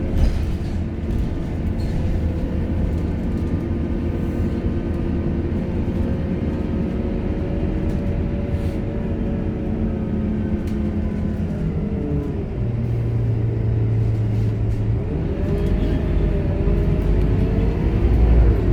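Scania K230UB bus's diesel engine pulling steadily, then its pitch drops about twelve seconds in and settles to a low steady hum before rising again as the bus accelerates, getting louder near the end.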